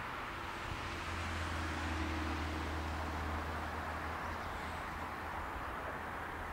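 Electric train running along the line, a steady rolling rush with a low hum underneath that swells slightly and then slowly eases off.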